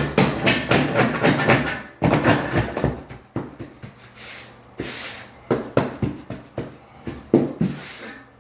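Trowel scraping and packing dry-pack shower pan mud, a run of irregular gritty scrapes and taps.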